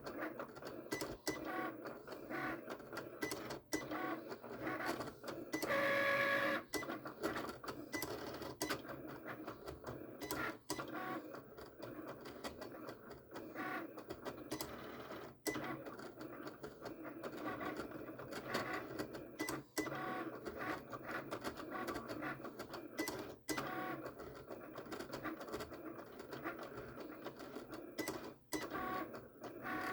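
Vinyl-cutting machine cutting out a decal: its motors whir and chatter in short irregular movements as the blade and carriage work across the vinyl. About six seconds in there is a brief steady whine.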